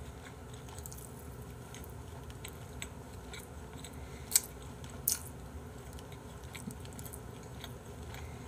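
Chewing a mouthful of rice and soy-marinated squid stuffed with fish roe, with small wet mouth clicks throughout and two sharper clicks about four and five seconds in.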